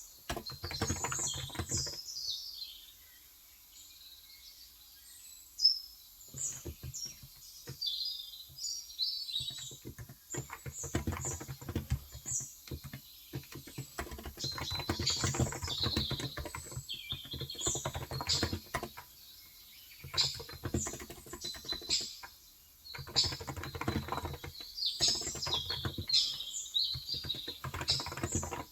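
Typing on a Cox Endeavor electro-capacitive 35 g tenkeyless keyboard, in runs of rapid keystrokes several seconds long with short pauses between them. Small birds chirp throughout in the background.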